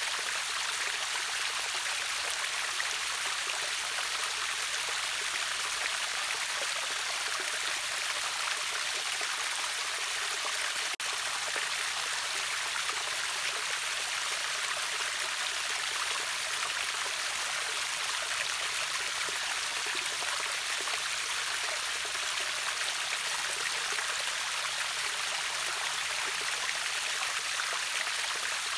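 River waterfall: steady, hissing rush of falling and flowing water, with little low rumble. There is a momentary break about eleven seconds in.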